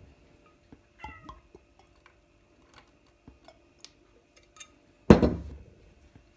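A cat meows once, briefly, about a second in, among scattered small clicks and taps. About five seconds in comes a single loud knock or thump that dies away over about a second, with a faint steady hum underneath.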